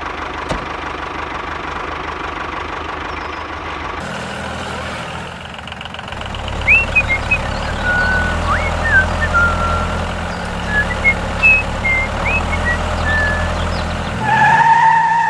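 Small motor of a mini model tractor running steadily with a faint whine, settling into a lower rumble partway through. Short high chirps come and go over it, and a steady two-tone beep sounds near the end.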